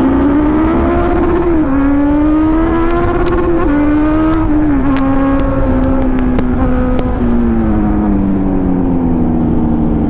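Motorcycle engine at speed, climbing in pitch and dropping sharply twice in the first few seconds as it shifts up, then holding steady before easing off, with steady wind rush underneath.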